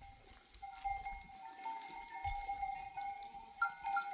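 Sheep bells on a moving flock, several ringing tones overlapping with light clinks.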